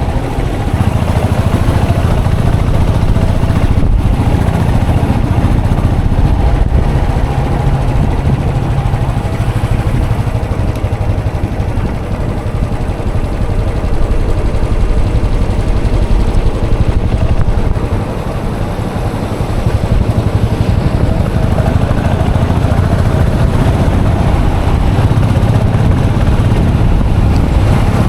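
Royal Enfield Classic 500 EFI's single-cylinder engine running steadily, easing off briefly twice along the way.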